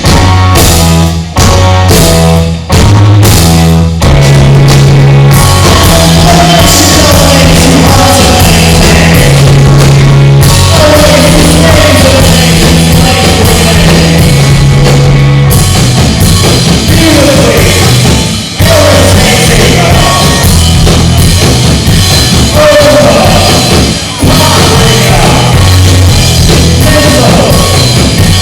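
Rock band playing live, with drum kit, bass, guitar and singing. It opens with a few short stop-start hits, then settles into a steady driving groove.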